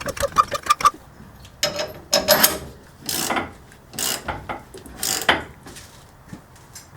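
Hand ratchet clicking as bolts are run in while a coilover is refitted: a quick run of ticks, then several separate ratcheting strokes about a second apart.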